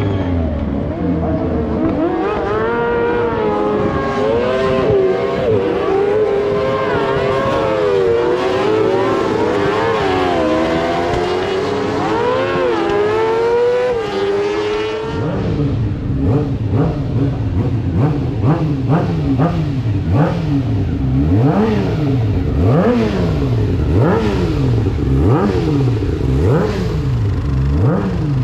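Several racing motorcycle engines at high revs, their pitches rising and falling as they accelerate and shift. About halfway the sound changes abruptly to lower engine notes that rise and fall every second or so.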